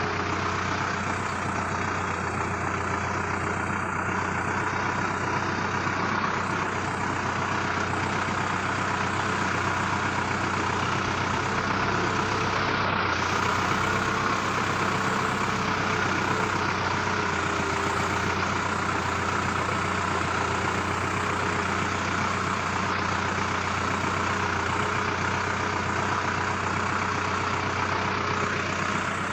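Sonalika 750 tractor's diesel engine running steadily at an even pitch.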